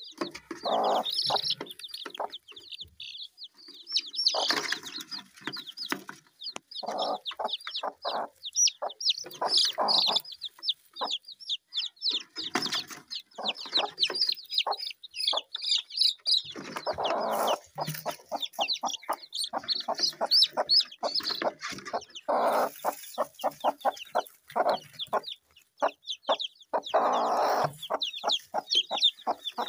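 Chickens clucking in short, irregular calls, with many quick, high chirps over them.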